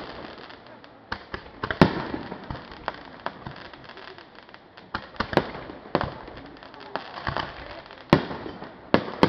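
Fireworks bursting: an irregular string of sharp bangs and pops with crackling between them, the loudest bangs about two seconds in and again near the end.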